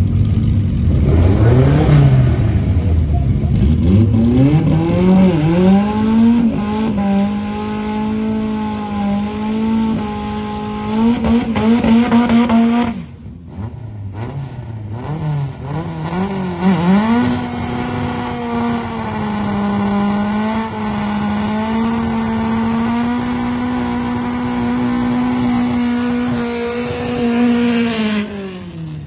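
A Datsun 521 pickup's naturally aspirated engine revving up and held at high, steady revs during a burnout, with tyre noise underneath. The sound breaks off suddenly about halfway through, then the engine is held high again for a second long hold before the revs fall away near the end.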